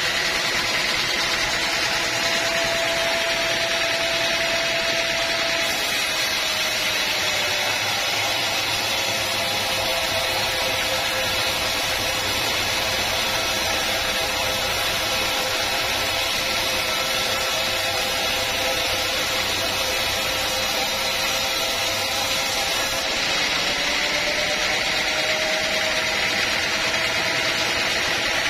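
Sawmill running steadily through a cut in a log, a loud continuous machine noise with a whine that drops a little in pitch early on and climbs back near the end.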